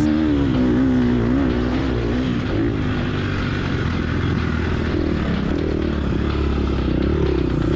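A 2022 Gas Gas EX250F's 250 cc four-stroke single-cylinder engine revving up and down as the dirt bike is ridden, its pitch rising and falling repeatedly.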